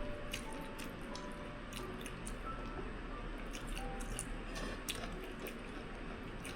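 People chewing a meal of rice and fish, with wet mouth smacks and small clicks scattered through, over soft background music of single held notes.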